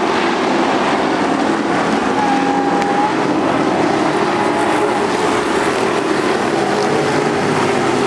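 Race trucks' engines running steadily at speed on the track, a loud unbroken engine drone.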